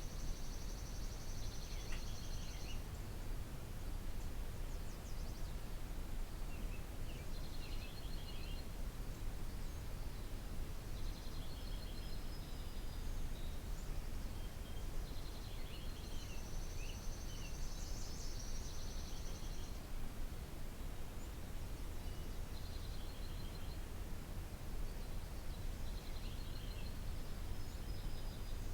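Songbirds singing in a garden, high song phrases of a couple of seconds each repeating every few seconds, over a steady low background rumble.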